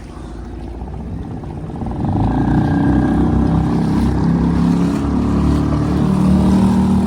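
Suzuki 2.5 hp outboard motor on a kayak running steadily, throttled up about two seconds in and then holding at the higher speed.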